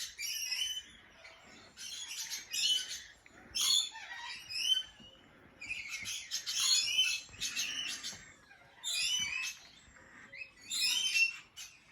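Captive parrots calling: clusters of short, shrill chirps and squawks that come every second or two, with brief quiet gaps between.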